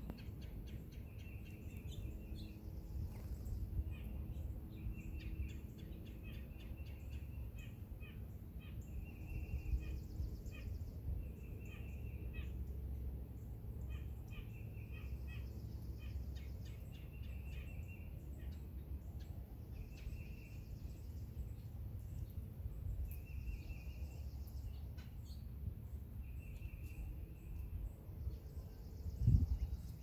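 Wild birds calling outdoors: short chirps repeating every second or two, and a higher, fast trill of about a second that comes back roughly every five seconds, over a steady low rumble. One dull thump sounds near the end.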